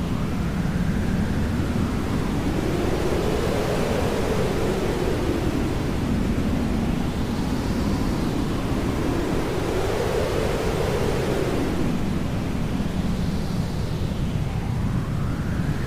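Steady hair dryer blowing, used as constant white noise, with a slow whooshing rise and fall in tone every several seconds.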